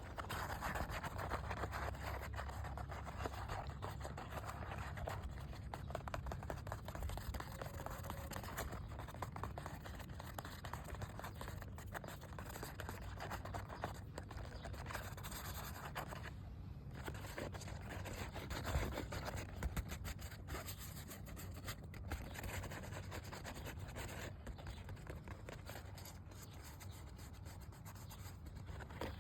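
Continuous close-miked scratching on a hard surface, made of rapid fine strokes, with a brief pause a little past halfway.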